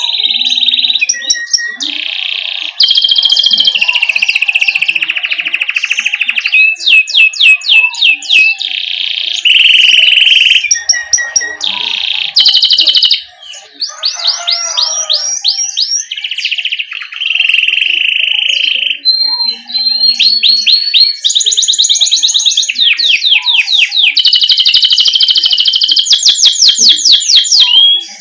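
Domestic canary singing a long, unbroken rolling song. Fast runs of rapidly repeated notes alternate with held, buzzy trills.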